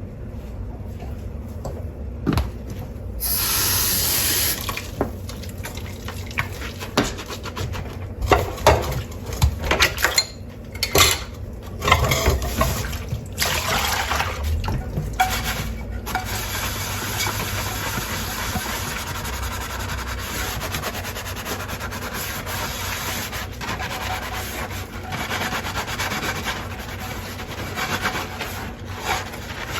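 Dishes being washed at a kitchen sink: tap water running and splashing, with dishes and utensils scrubbed and knocking and clinking against each other.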